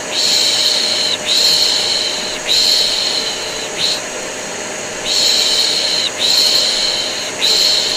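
A person shushing rhythmically, long 'shhh' hisses of about a second each with short breaks between them, over the steady drone of a vacuum cleaner running. It is white noise for soothing a colicky baby.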